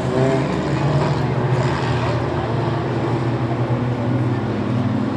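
Several Mighty Truck race trucks' engines running together at a steady moderate speed, a continuous mixed engine drone, as the field circles on the pace laps before the green flag.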